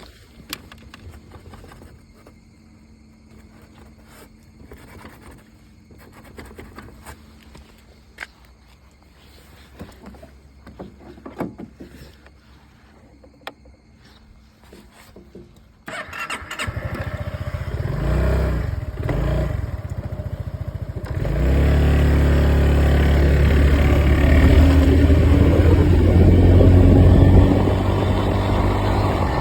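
Quiet for about the first half, with scattered small clicks and knocks. Then a Honda SH300 scooter's single-cylinder engine starts suddenly and runs, getting louder about five seconds later and staying loud.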